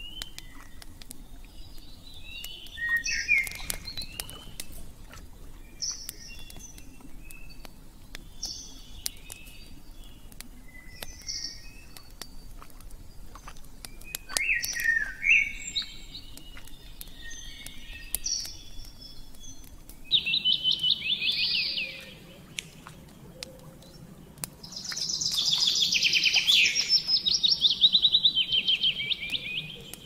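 Wild songbirds singing: scattered high chirps and short phrases, then a loud rapid trill about two-thirds of the way in and a longer, louder trill near the end.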